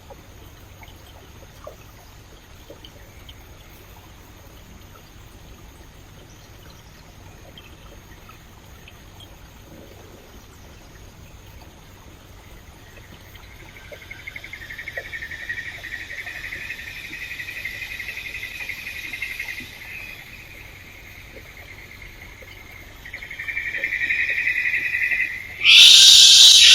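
Faint stream with a high, steady insect drone, typical of rainforest cicadas, that swells in about halfway through. A much louder high hiss cuts in suddenly about a second before the end.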